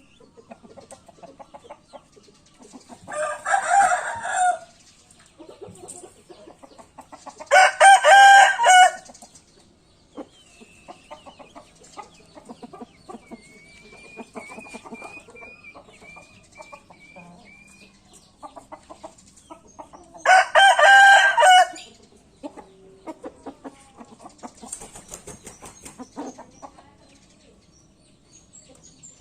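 Bangkok game-fowl roosters crowing three times, each crow lasting a second or so, about 4, 8 and 21 seconds in. Between the second and third crow there is a faint run of short high chirps, about two a second.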